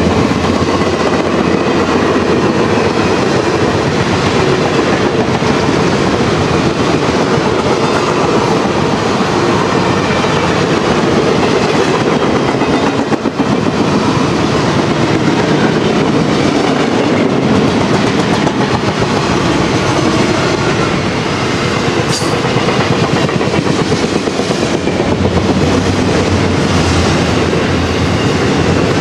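Railway coaches of a long train rolling past at close range: a steady rumble and clatter of steel wheels on the rails.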